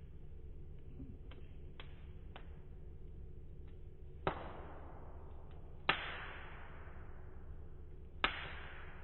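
Wood fire burning in a fire pit, crackling: a few faint ticks, then three sharp pops, each trailing off over about a second, over a low steady rumble.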